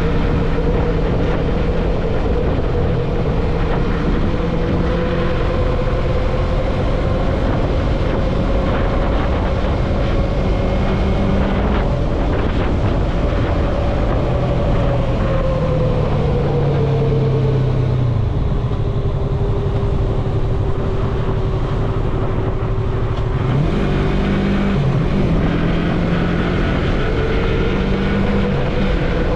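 Yamaha MT-03 motorcycle engine running at road speed, with steady wind rush on the mount-side microphone. The engine note holds level, eases down about halfway through, wavers briefly about two-thirds in, and climbs again near the end.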